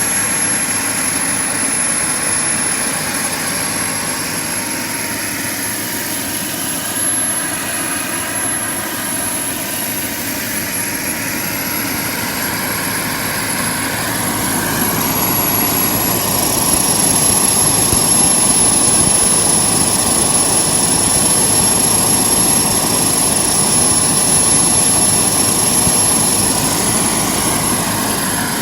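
JetCentral model turboprop turbine running with its propeller turning: a steady roar with a thin high whine. About halfway through a second whine comes in and it gets louder, then holds steady.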